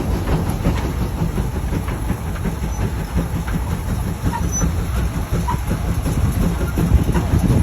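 Big farm tractor's engine running steadily, a low rumble with a rapid pulsing texture.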